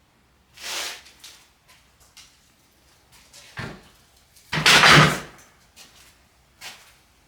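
A few knocks from a mallet striking the oil pan of a Nissan VG30DETT engine to break its liquid-gasket seal loose. The loudest blow comes about five seconds in.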